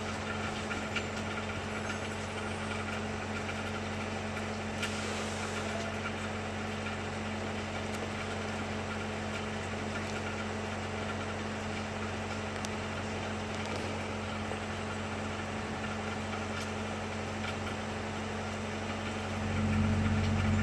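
An engine idling with a steady low hum, getting louder near the end.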